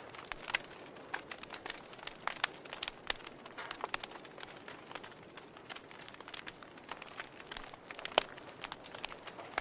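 Campfire burning wood crackling: irregular sharp pops and snaps over a soft steady hiss, with one louder pop late on.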